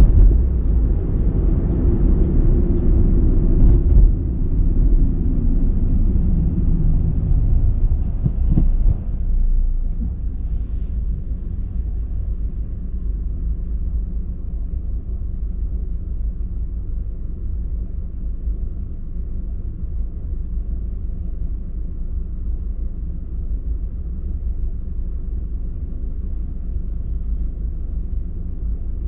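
A car driving, with a low rumble of engine and tyre noise. It is louder for the first nine seconds or so, then settles to a quieter, steady hum.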